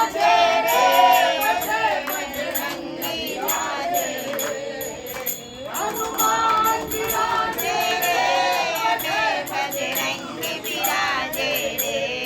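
Group of voices singing a Hindi devotional bhajan to Shiva, with jingling percussion keeping a steady beat.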